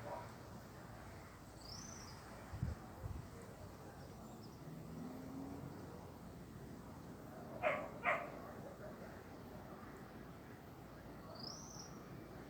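A dog gives two short barks in quick succession about eight seconds in, over a faint steady outdoor hiss. Two brief high chirps, like a small bird's, come near the start and near the end.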